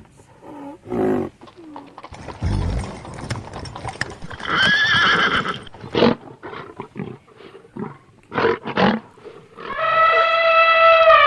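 Horse whinnying: a short neigh about halfway through, a run of short sharp sounds, then a long whinny near the end that holds its pitch and then falls.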